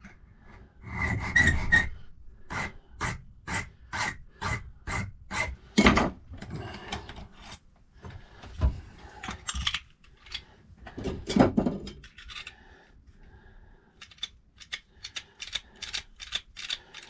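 Hand file rasping across the bit of a safe-lock key blank as the lever steps are cut. A steady run of about two strokes a second gives way to heavier, irregular strokes, then a quick flurry of lighter strokes near the end.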